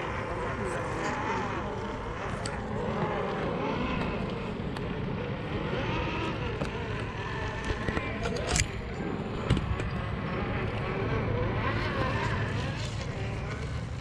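Electric RC scale crawler trucks driving, their brushless motors and geartrains whining with a pitch that keeps changing. There are a few sharp knocks about eight and a half and nine and a half seconds in.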